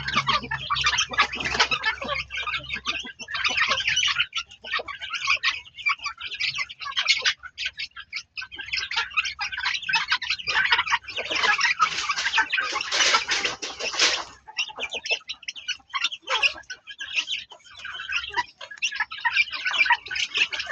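Birds calling, likely fowl: a dense, continuous run of short, high chirps and clucks that are busiest a little past the middle, with brief lulls.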